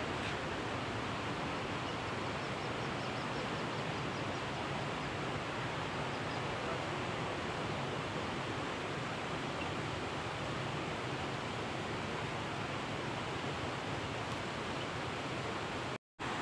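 Steady, even rushing noise, cut off to silence for an instant near the end.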